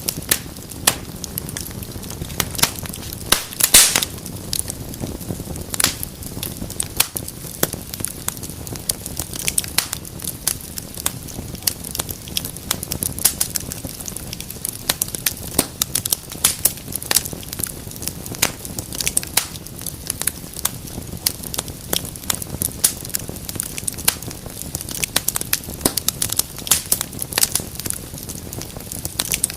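Wood fire in a fireplace crackling steadily, with frequent sharp pops over a low hissing rumble of the flames; a louder burst of pops comes about four seconds in.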